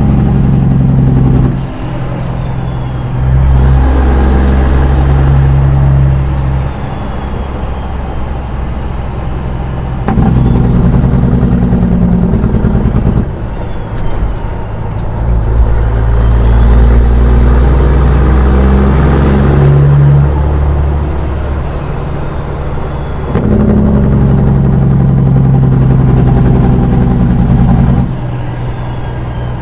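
Diesel engine of a Peterbilt 379 semi truck pulling hard in several stretches, falling back quieter in between as it eases off or shifts. A high whistle rises and falls twice.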